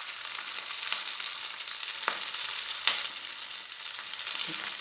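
Potato pancakes (draniki made with grated lard) sizzling in hot oil in a frying pan, a steady hiss. Two sharp clicks about two and three seconds in come from the metal spoon touching the pan as the batter is spread.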